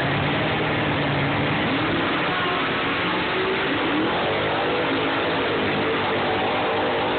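Mercury Marauder drag car's engine revving on the starting line, then launching about four seconds in and accelerating hard away down the drag strip, its pitch rising.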